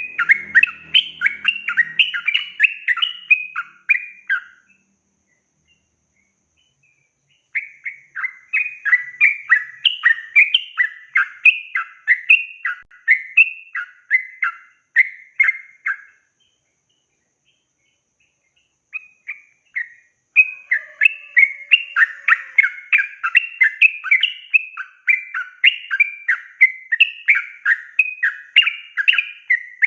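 Yellow-vented bulbul (trucukan) singing long chattering runs of quick chirping notes, about two a second, in three bouts broken by two silent pauses of about three seconds.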